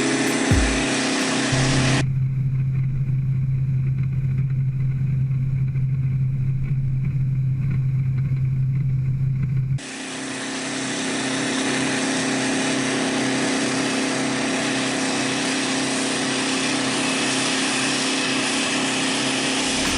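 Aircraft engines running steadily, heard as a continuous drone. For the first ten seconds a strong low hum dominates, then the sound switches abruptly to a brighter, hissier engine noise with steady tones.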